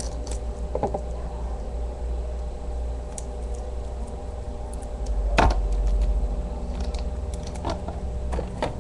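Handling noise from a diecast model airliner being packed back into its box: a few separate light knocks and clicks, the loudest about halfway through, over a steady low hum.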